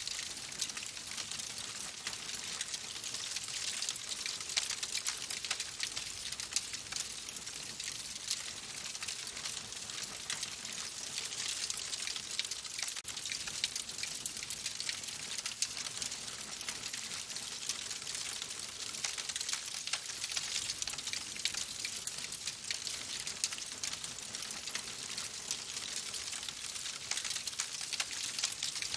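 Wood fire crackling in a fireplace: a steady hiss full of small, quick snaps and pops.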